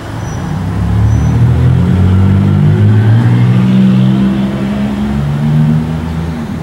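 A motor vehicle engine running loud, its low hum swelling about a second in and easing off near the end.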